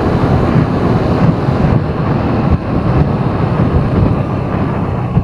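Steady, loud driving noise of a vehicle moving through city streets: engine and road noise.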